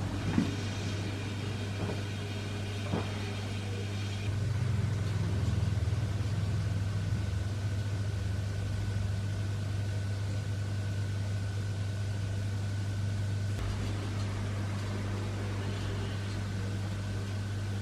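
Steady electrical hum of a household appliance, with a few light clicks in the first few seconds.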